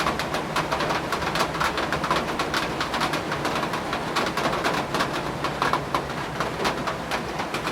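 Rain falling, with many irregular drop impacts ticking over a steady hiss of rain and wind.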